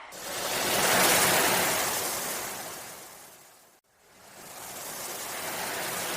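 Ocean waves washing in and drawing back: one surge peaks about a second in and fades away, the sound cuts out abruptly shortly after the middle, then a second surge builds.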